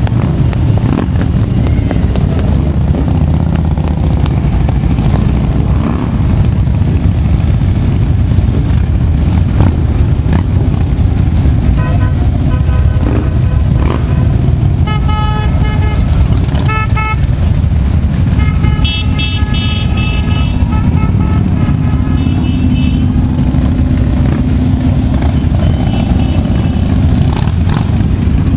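Motorcycle engines rumble steadily as a group of bikes rides in. Horns toot repeatedly, a series of short blasts from about halfway through and a brief one near the end.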